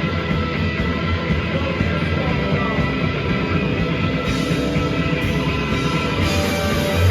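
Live rock band playing loud, dense distorted electric guitars in a sustained wall of sound.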